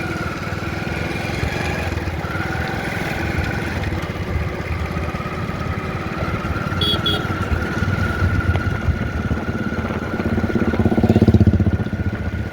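A motor engine running steadily with an even low pulse and a thin whine above it, swelling louder for a moment about eleven seconds in.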